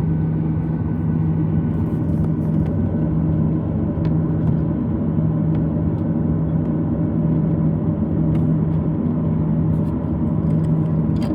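Boeing 737-800 cabin noise: the CFM56 engines give a steady low hum over a continuous rumble, holding even in pitch and loudness throughout.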